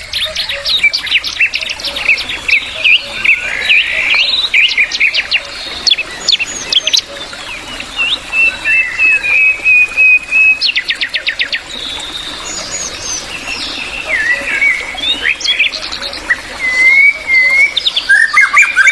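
Bulbul singing a long, varied song of rapid chirps and quick up-and-down whistled notes. About halfway through comes a held whistle, followed by a fast rattling run of notes.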